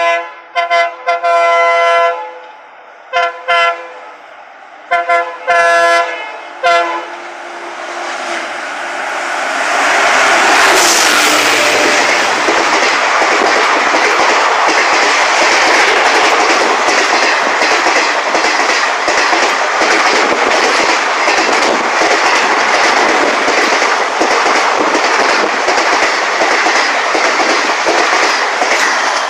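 Indian Railways express train sounding its multi-tone horn in several blasts, long and short, over the first seven seconds as it approaches. It then runs through the station at speed: a loud, steady rush of passing coaches with rapid, even wheel clatter over the rail joints.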